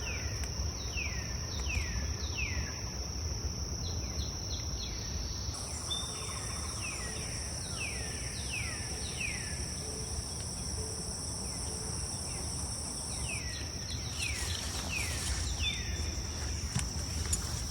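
Tropical forest insects droning steadily at a high pitch, with a second, even higher insect chorus starting about five seconds in and stopping at around thirteen seconds. Over it come runs of short falling calls repeated every fraction of a second, with a low rumble underneath and a few light knocks near the end.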